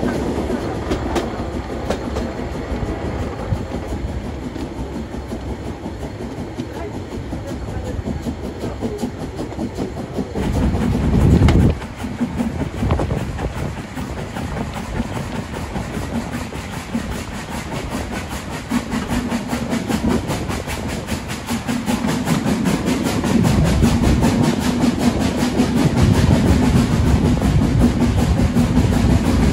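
Train running on the rails, wheels clattering over the track, with a brief louder rumble about eleven seconds in and a steady low hum building louder near the end.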